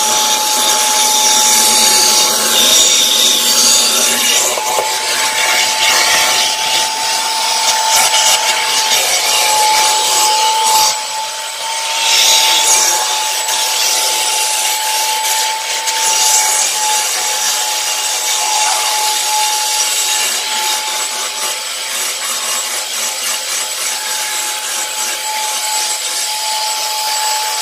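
ProTeam commercial HEPA backpack vacuum running with a steady high whine, its tool being worked across carpet, the suction hiss rising and easing with the strokes.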